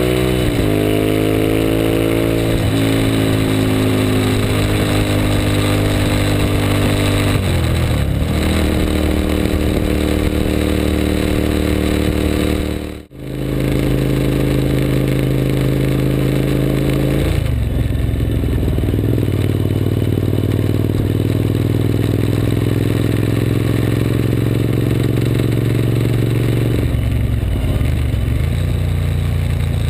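Suzuki SV1000S's 996 cc V-twin engine running at road speed under wind noise, its pitch dropping and climbing several times as the gears and throttle change. The sound dips out briefly about thirteen seconds in, at a cut.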